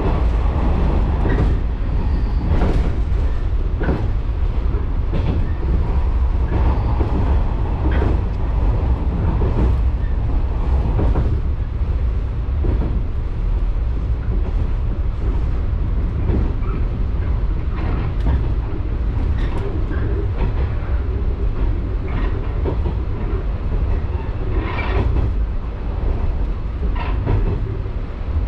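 Electric local train running along the line, heard from inside the car: a steady low rumble of wheels on rail. Short clicks of the wheels passing over rail joints come at irregular intervals of about a second or two.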